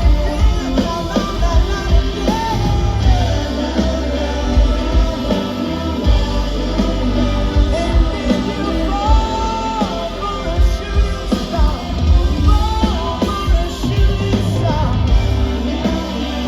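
Rock band playing live with singing over a steady drum and bass beat.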